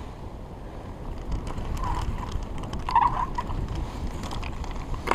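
Strong wind buffeting the microphone, a low rumble throughout, with a couple of faint short sounds about two and three seconds in.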